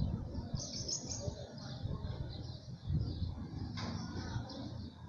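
Birds chirping over a low background rumble.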